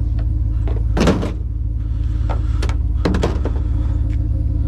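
Steady low hum of an idling truck engine, with several knocks and thumps over it. The loudest comes about a second in, and a quick cluster follows about three seconds in.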